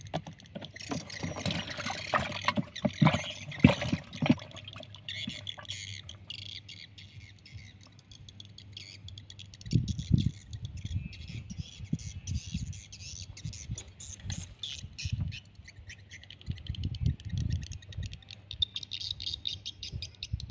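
Small birds chirping, with dense clicking and rustling of handling for the first six seconds or so and scattered low thumps from about halfway through.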